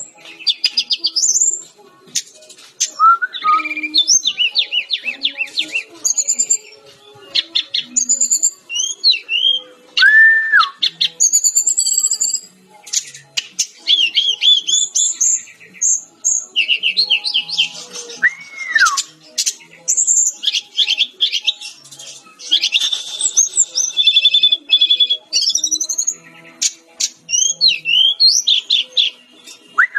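A Sikatan-rimba dada-coklat (Cyornis jungle flycatcher) in full song: rapid, varied phrases of high whistles and trills, broken by short pauses. A few lower slurred whistles come in between.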